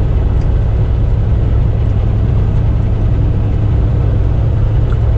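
Semi truck's diesel engine and road noise heard from inside the cab while driving on the highway: a steady low drone.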